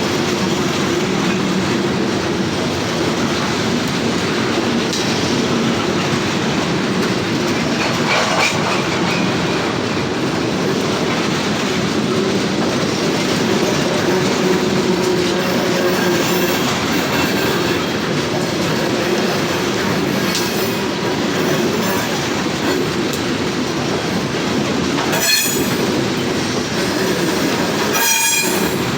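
CSX freight train rolling past with a steady, loud rumble of cars on the rails, with high-pitched wheel squeal coming and going in the second half.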